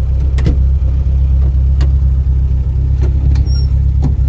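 Classic Lada's four-cylinder engine idling steadily, heard from inside the cabin as a low rumble, with a few light clicks over it.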